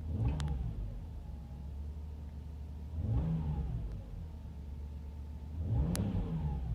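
Subaru Outback 3.6R's 3.6-litre flat-six on its stock mufflers, heard from inside the cabin: idling steadily and blipped three times, each rev rising and falling back to idle. Sharp clicks come with the first and last blips.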